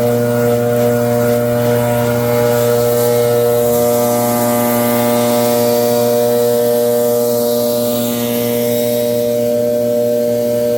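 Leaf blower engine running steadily at one even pitch, with the rush of blown air.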